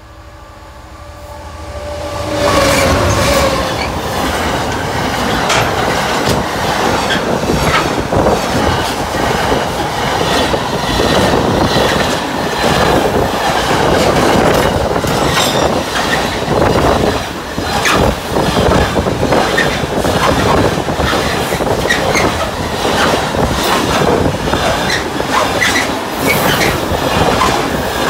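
Diesel-hauled container freight train passing at close range. It swells as the locomotive arrives about two seconds in, then keeps up a loud, steady rumble of wagons with repeated sharp wheel clatter.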